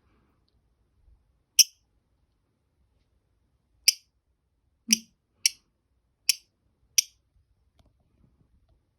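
Pet lovebird giving six short, sharp, high-pitched chirps: one alone, then five in quick succession over about three seconds.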